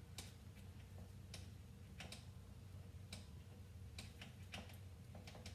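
Faint, irregular clicking, about once a second, as the gear shift lever of a KTM 65 SX dirt bike is worked down from neutral, over a low steady hum.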